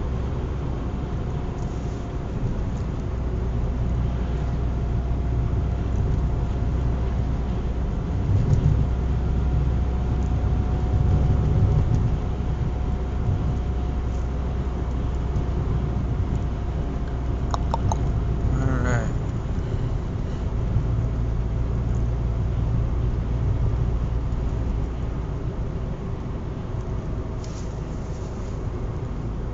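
Road noise from inside a moving car: a steady low rumble of engine and tyres with a faint steady whine. The rumble swells louder twice in the first half. A few clicks and a short rising squeal come a little past halfway.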